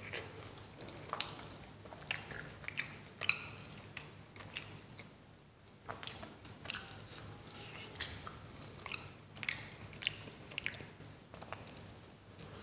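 Close-miked eating sounds: chewing and biting paratha, with irregular crisp crunches and clicks, and flatbread being torn by hand.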